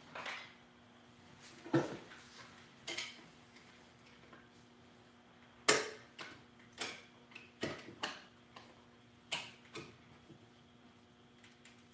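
Irregular sharp metallic clicks and taps from tools and parts during valve spring and keeper removal on an LS cylinder head. The loudest click comes a little before the middle.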